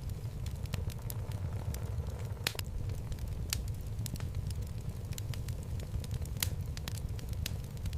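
Wood fire burning in a fireplace: a steady low rumble of the flames with scattered sharp crackles and pops from the logs, a few louder ones about two and a half and three and a half seconds in.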